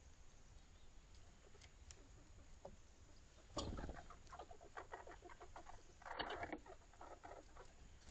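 Faint rapid scratching and rustling of small animals foraging, in two bursts of quick ticks: the first opens with a soft knock about halfway through, and the second comes near the end.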